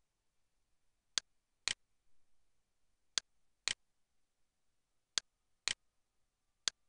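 Computer mouse button clicking: four pairs of sharp clicks, the two clicks in each pair about half a second apart.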